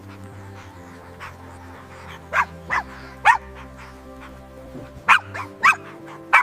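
A dog giving short, high yips, about seven in two groups, each yip dropping in pitch, over soft background music.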